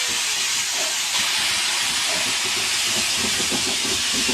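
Steam locomotive letting off steam in a loud, steady hiss.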